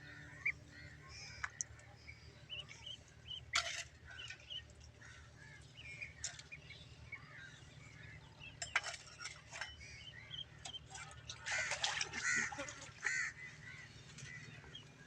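Ducklings peeping: many short, high calls, growing into a denser flurry about twelve seconds in, with a few sharp knocks among them.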